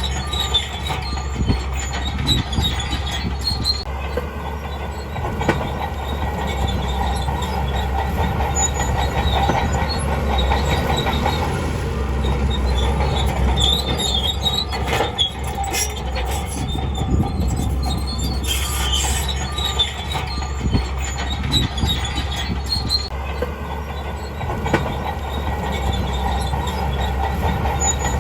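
Crawler bulldozer working: steel tracks squealing and clanking as they roll, over the steady running of its diesel engine.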